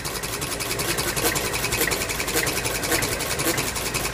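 Home-made flywheel engine running steadily in a quick, even beat while it drives a washing machine motor alternator loaded with light bulbs, its governor holding the speed under the load.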